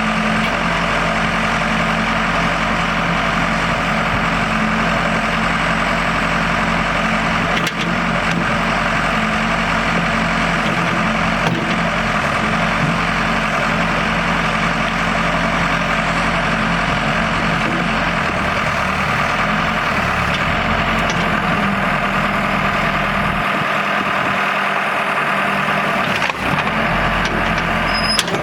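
1998 Case 580 Super L backhoe's diesel engine running steadily, with a faint knock about eight seconds in and another near the end.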